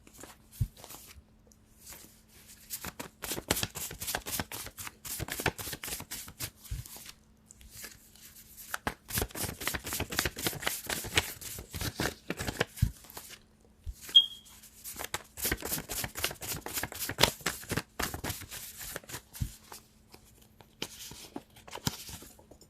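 Tarot cards being shuffled by hand: several runs of rapid flicking clicks with short pauses between. A brief high chirp comes about two-thirds of the way through.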